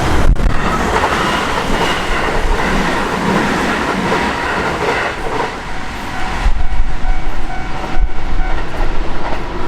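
A Kintetsu electric train passing over a level crossing, its wheels clattering on the rails in an uneven rhythm over a steady rumble. The crossing's warning bell rings through it, coming through more clearly near the end.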